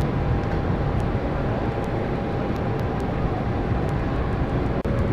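Steady aircraft noise at an airport: an even rushing sound with a faint constant whine, briefly cut off near the end.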